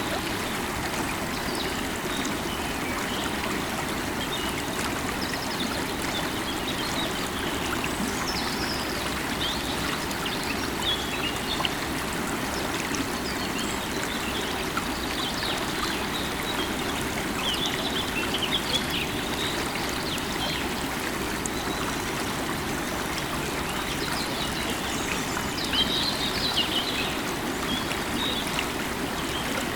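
River water running steadily over stones, with small birds chirping on and off above it; the chirping is busiest near the end.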